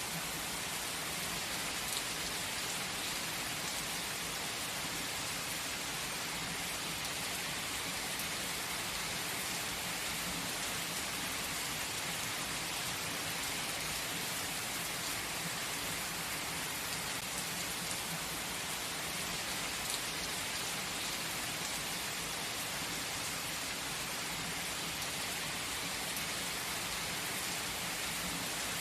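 Steady gentle rain falling, an even hiss with a few sharper drop taps.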